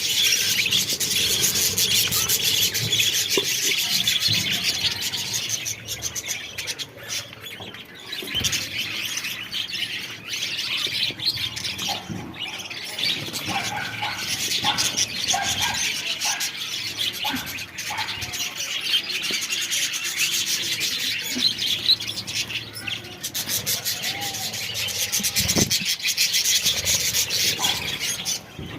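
Many budgerigars in a colony chattering and chirping at once, a dense continuous mass of high warbles and chirps, easing off briefly about six to nine seconds in.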